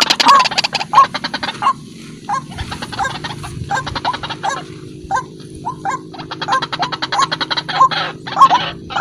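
White-breasted waterhen (ruak-ruak) calling: a steady run of short, hooked notes repeated about every half second or so. The calls are a little quieter through the middle.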